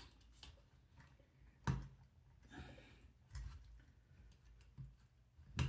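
Scattered light clicks and knocks of plastic parts being handled as motor cables are pushed into the small plastic cable clips of a robot's lower body shell. The sharpest knocks come about two seconds in and right at the end.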